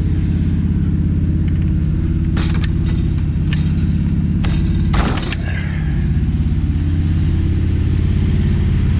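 1959 Ford F500 truck engine running steadily with a loud, low exhaust note; the truck needs a new muffler. A few sharp clicks come in the middle, and a louder clatter about five seconds in.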